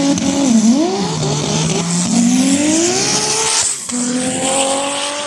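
Drag race car engines accelerating hard. One engine's pitch dips, then climbs steadily for about two seconds; a little before the four-second mark the sound cuts abruptly to another car's engine, whose pitch rises more slowly.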